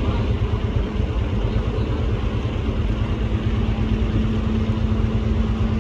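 A machine's engine running steadily with a low rumble, and a steady hum joining in about two seconds in.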